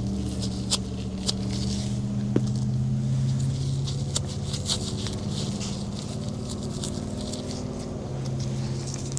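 A small motor humming steadily, with scratchy rustling and several sharp clicks over it; the hum changes pitch about a second before the end.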